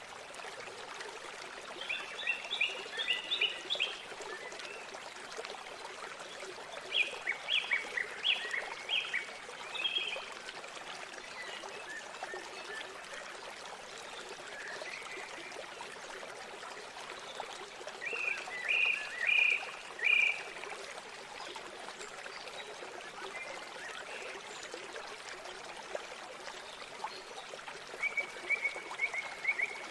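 River water flowing steadily, with birds calling over it in four short bursts of quick repeated notes, about every ten seconds.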